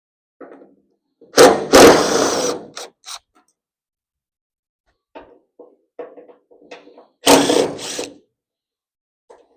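Loud metallic clanks and rattles of tools and car parts being handled during disassembly, two bursts about two seconds and seven seconds in, with a run of small clicks and knocks between them.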